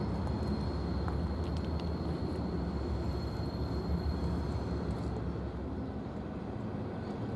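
Freight train rolling past: a steady low rumble of wheels on rail with a faint, steady high-pitched squeal, easing off slightly near the end.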